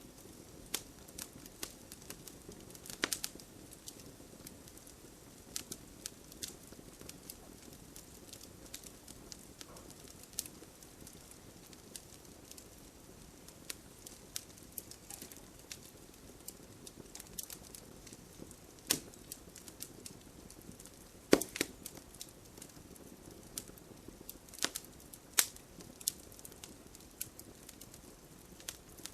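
Wood campfire crackling: a low steady hiss of burning, with frequent sharp snaps and pops scattered irregularly and a few louder pops, the loudest about three-quarters of the way through.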